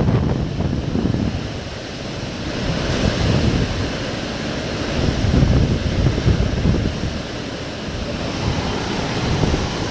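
Hurricane-force wind gusting, with heavy wind buffeting on the microphone: a loud rushing rumble that swells and eases every few seconds.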